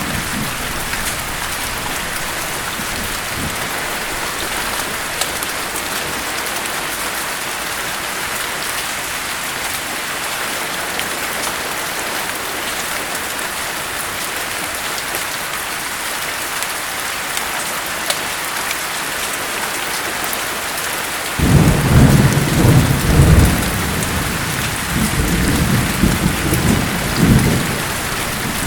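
Steady rain falling in an even hiss. About two-thirds of the way through, thunder rumbles in suddenly, low and loud, rolling twice before dying away near the end.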